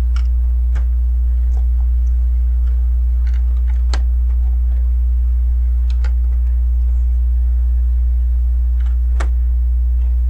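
A few sharp plastic clicks of LEGO bricks being handled and pressed together, scattered at irregular intervals, over a loud steady low hum.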